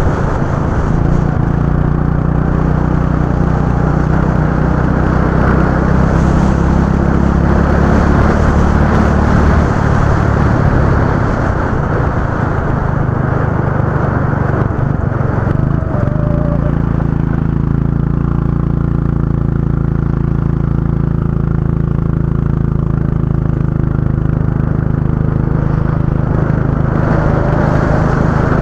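Go-kart engine running at a fairly steady speed, easing off a little about ten seconds in and settling back to a steady run at about sixteen seconds.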